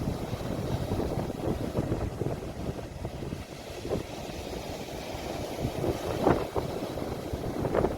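Sea waves washing against the shore, recorded on a phone, with low rumbling wind noise on the microphone and a couple of brief splashes near the end.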